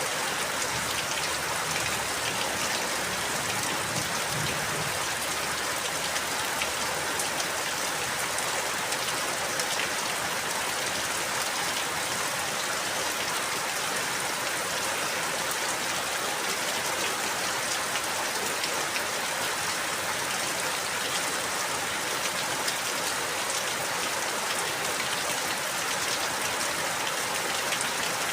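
Steady rain falling, a dense even hiss with many small drop ticks and no let-up.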